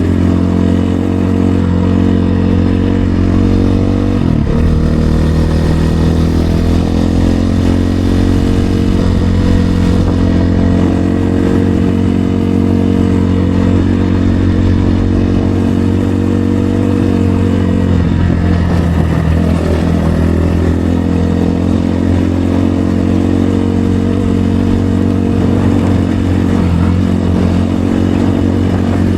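RVM CZ 250 T Pro enduro motorcycle engine running under way at a fairly steady pitch. The pitch dips and climbs again about four seconds in, around eighteen seconds in and near the end, as the throttle eases off and comes back on.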